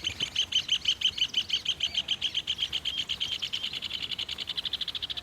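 Rufous hornero (red ovenbird) calling: a fast, even series of repeated chattering notes, about ten a second, the excited call of a pair at a nest site.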